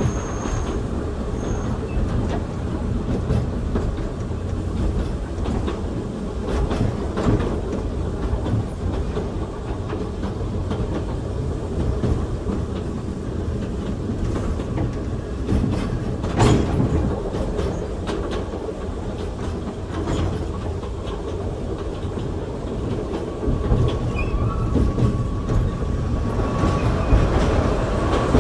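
Oigawa Railway Ikawa Line passenger car running, heard from inside the car: a steady low rumble of wheels on rail with irregular clicks over the rail joints and a sharper knock about 16 seconds in. A faint thin squeal joins near the end.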